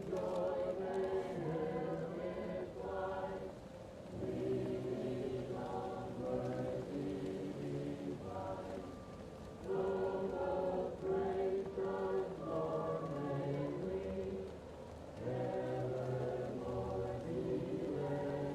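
A choir singing slow, held phrases, muffled as if from another room, with a fireplace crackling faintly underneath. The singing swells and falls back in phrases a few seconds long.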